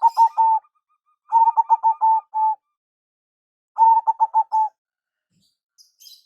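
Zebra dove (perkutut) singing its staccato cooing song, in quick bursts of rapidly repeated coos a couple of seconds apart. Faint high chirps come near the end.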